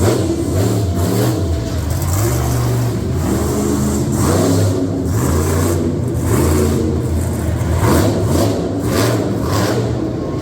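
Vehicle engines revving and running, the pitch jumping up and down as the throttle opens and closes.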